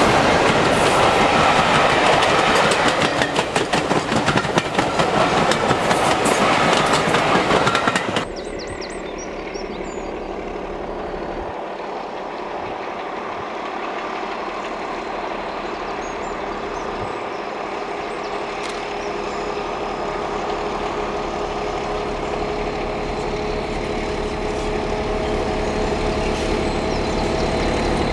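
A diesel-hauled train passes close by with its wheels clattering over the rail joints. About eight seconds in it cuts off suddenly to a quieter, steady diesel locomotive engine sound with held tones, slowly growing louder.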